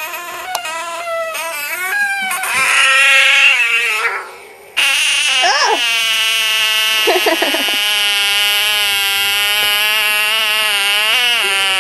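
Bullfrog's distress scream, given with its mouth held open as it is grabbed: a loud, drawn-out wail like a crying baby. A first cry rises and wavers, then breaks off; about five seconds in a second scream starts abruptly and is held steadily to the end.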